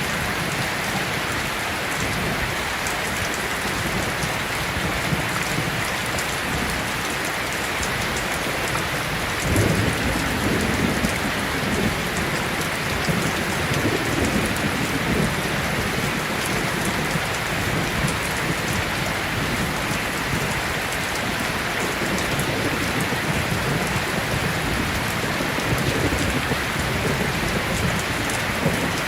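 Heavy rain falling steadily. A roll of thunder breaks in about a third of the way through and rumbles on for several seconds, and another low rumble swells near the end.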